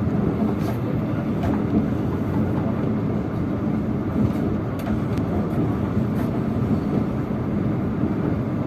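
Steady rumble of a moving passenger train heard from on board, with a few faint clicks scattered through it.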